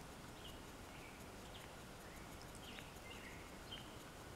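Faint birdsong: small birds give about seven short, high chirps, roughly one every half second, over a low, steady outdoor rumble.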